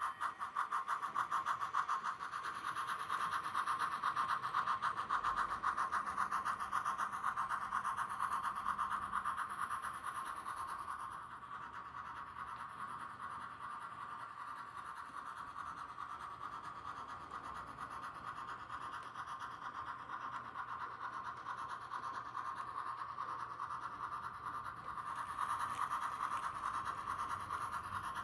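Sound-equipped Bachmann HO 4-4-0 model steam locomotive running, its onboard sound decoder playing fast, steady steam chuffs through a small speaker. The chuffing drops somewhat partway through and grows louder again near the end.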